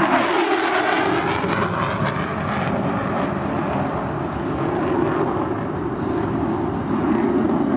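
F-35 Lightning II's single turbofan engine passing close by: a loud jet whoosh that drops in pitch over the first two seconds as it goes by, then a steady, continuing jet noise.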